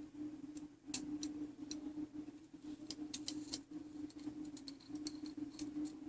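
Irregular small clicks and light taps of metal clock-movement parts and tools being handled during reassembly, a few with a brief high metallic ring, over a steady low hum.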